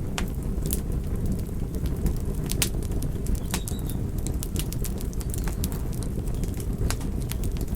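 Bonfire burning: a steady low rumble of flames with scattered sharp crackles and pops from the burning wood, several a second.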